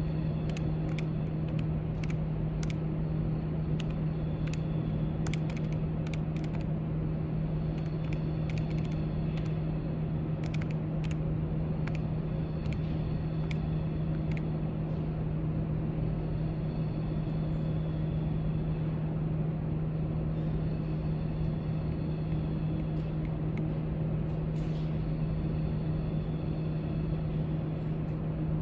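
Steady low room hum with scattered light clicks of typing on a keyboard, frequent through the first half and sparser after.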